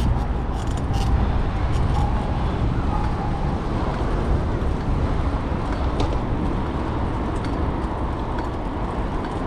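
Wind rushing over the microphone of a moving bicycle, heavy and low, over the steady noise of city traffic.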